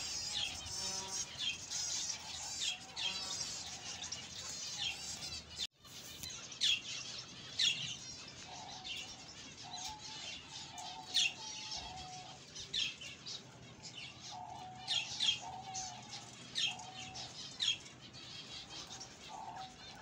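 Small birds chirping and twittering in quick high trills, with a lower repeated call coming and going underneath. The sound cuts out for a moment about six seconds in.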